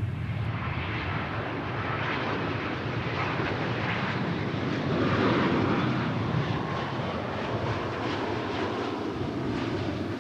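Jet airliner engines passing close by, a steady rushing roar that swells to its loudest about five seconds in and then eases slightly.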